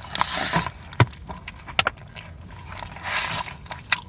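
A person biting into a fried chicken tender sandwich and chewing, with a loud bite about half a second in, wet clicks of chewing, and a second bite or chewing burst around three seconds in.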